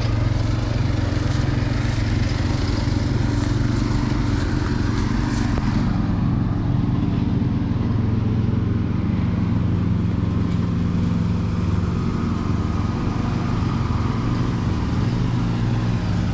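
An engine running steadily, a low hum that holds an even pitch and level throughout.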